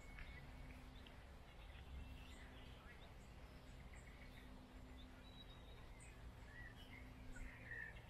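Faint scattered bird chirps over a low, steady background rumble and hum.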